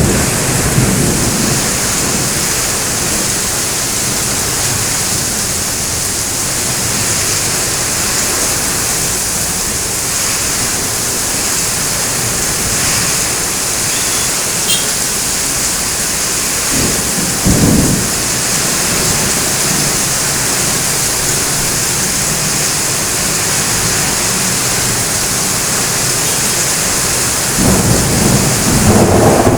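Heavy rain pouring steadily, with thunder rumbling low under it: a short rumble a little past halfway and a longer, louder one near the end.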